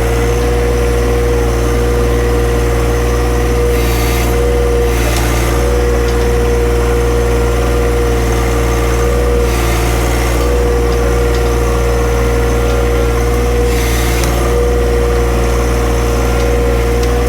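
Tractor engine running steadily under load while it presses down a brush pile, with a few short noisy bursts over the engine.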